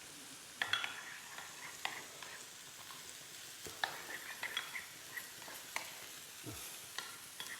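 Spoon stirring harissa mayonnaise with olives in a bowl, with scattered light clicks of the spoon against the bowl. Chicken breasts sizzle faintly on a griddle pan underneath.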